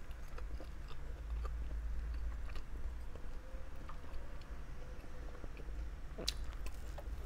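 A person chewing grilled barbecue meat, with scattered small wet mouth clicks and a couple of sharper smacks about six seconds in, over a low steady hum.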